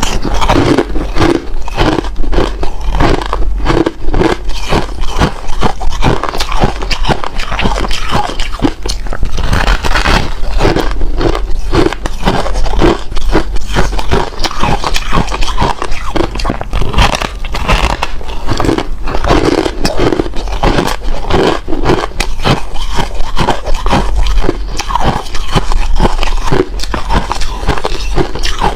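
Close-miked ice being bitten and chewed, a fast run of crunches and cracks with no pause.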